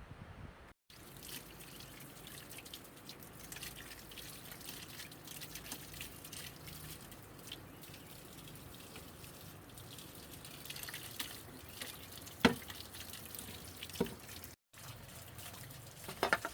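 Water dripping and trickling, with many small clicks, and a few sharp knocks in the second half.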